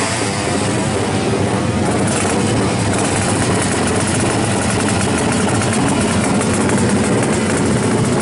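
Two-stroke motorcycle engine with a racing ignition running steadily, a dense, even stream of rapid firing pulses with no rise or fall in revs.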